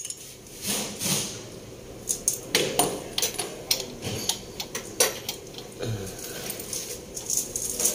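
Irregular light metallic clinks and knocks of tools and parts being handled during engine work, with no engine running.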